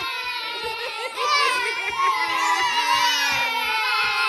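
Young children's high-pitched voices, several overlapping at once, with a child crying or wailing among them.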